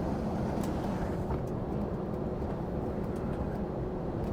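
Lorry engine and road noise heard from inside the cab while driving at a steady speed: a continuous low rumble.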